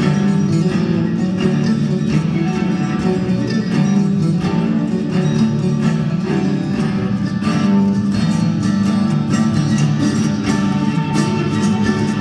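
Acoustic string band playing, with guitar to the fore, picked and strummed over a steady beat.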